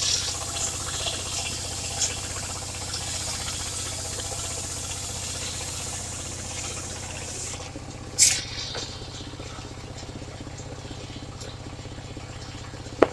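Engine of a portable circular sawmill running steadily at low speed, with a short loud burst about eight seconds in and a sharp knock near the end.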